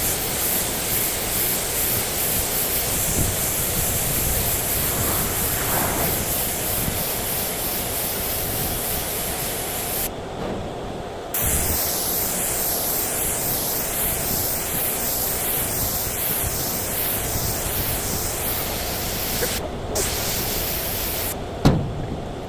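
Paint spray gun hissing steadily as paint is sprayed. The spray cuts off for about a second midway and again briefly later, as the trigger is let go. It stops near the end with a sharp knock.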